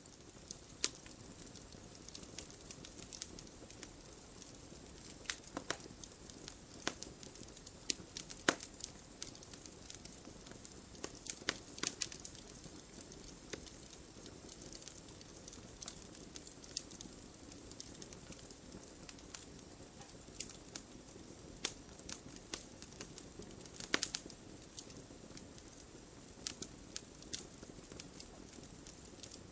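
Wood fire crackling: a steady low hiss with irregular sharp pops and snaps, a few louder ones scattered through.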